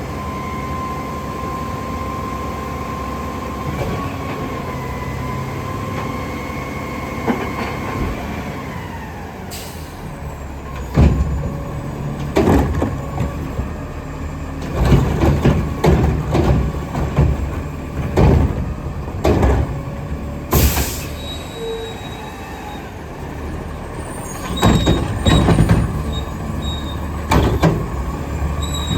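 Diesel Autocar garbage truck with a McNeilus front loader and Curotto can at work. The engine and hydraulics run with a steady whine for the first several seconds. Then come repeated heavy metallic bangs and clanks in irregular clusters, and a short sharp burst of air hiss about two-thirds of the way through.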